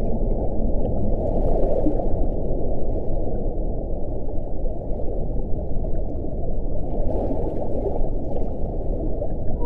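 Steady low wind rushing, with gusts swelling briefly about a second and a half in and again about seven seconds in.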